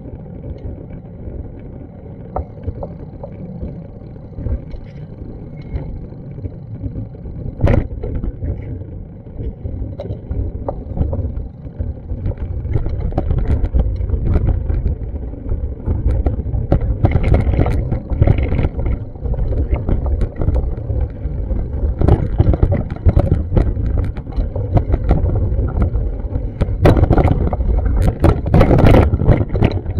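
City street ambience picked up by an action camera while walking: a low rumbling, buffeting noise typical of wind on the microphone, mixed with road traffic. It grows louder about twelve seconds in.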